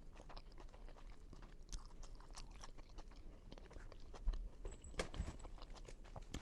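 A person chewing a mouthful of pizza close to the microphone: faint, irregular wet clicks and small crunches of the mouth and crust.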